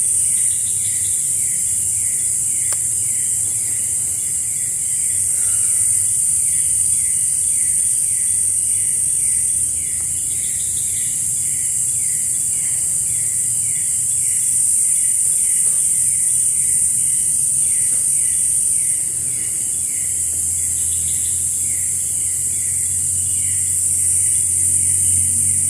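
Jungle insects calling: a steady high-pitched buzz with a repeated chirp about twice a second over it. A low hum comes in near the end.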